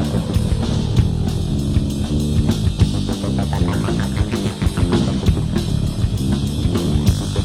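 Funk and jazz-fusion rock band playing a busy instrumental passage: electric guitar and bass notes over a drum kit keeping a steady beat.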